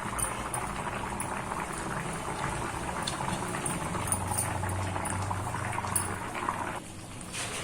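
Spiced gravy bubbling at a simmer in the pan, a dense steady crackle that cuts off near the end.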